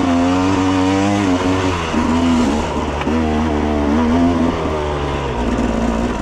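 Enduro motorcycle engine running at low revs, its pitch wavering up and down with small throttle changes.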